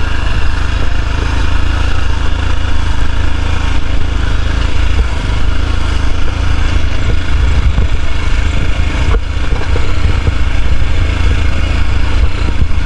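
Motorcycle running while being ridden, under a heavy low rumble of wind on the microphone.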